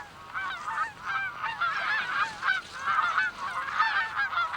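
A flock of birds calling: many short, hooked calls following one another quickly and overlapping.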